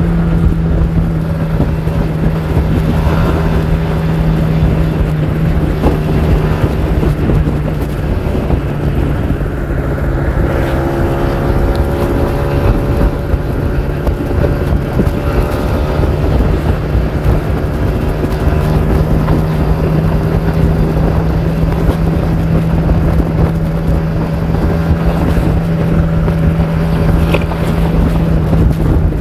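Kawasaki Ninja R 150's two-stroke single-cylinder engine running at a steady speed, holding one even pitch that dips slightly about three seconds in.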